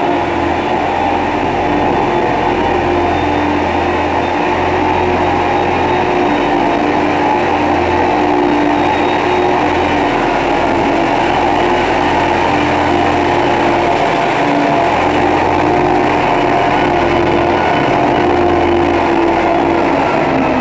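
PAUS PMKT 8000 tunnelling truck's diesel engine running at a steady pitch as the truck travels through a tunnel, with a continuous drone and road noise.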